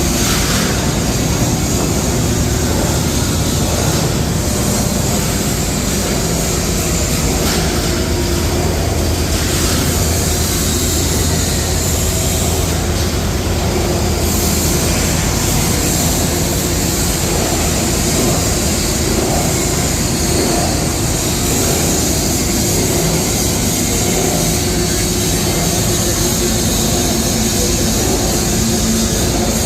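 Scrap plastic washing machinery running steadily, a constant hum under a dense mechanical noise.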